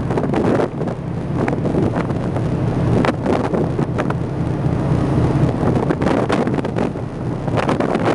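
Wind buffeting the microphone in irregular gusts over a steady low rumble from a ferry under way.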